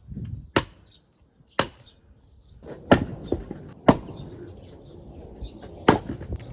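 An axe chopping firewood: five sharp blows, spaced about a second apart with a longer gap before the last.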